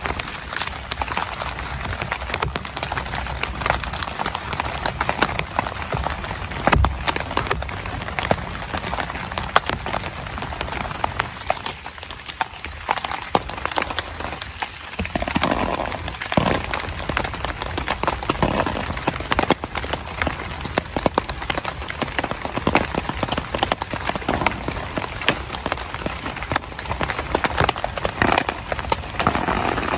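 Rain falling on a tent: a steady, dense patter of drops. A few louder knocks come through about a quarter of the way in, and some louder, unclear sounds come midway and near the end.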